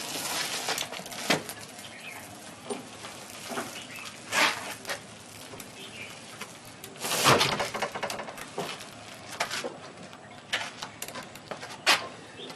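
Irregular knocks and clicks with a few bursts of scraping or rustling noise; the loudest burst comes a little past halfway.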